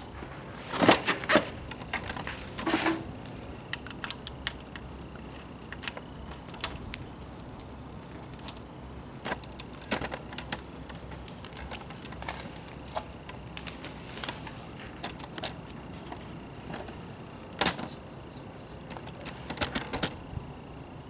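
Scattered light clicks and metallic rattles from small objects being handled, with louder clatters about a second in, near three seconds and twice near the end.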